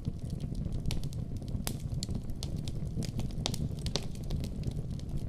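Wood campfire crackling: frequent sharp pops and snaps at irregular intervals over a steady low rumble.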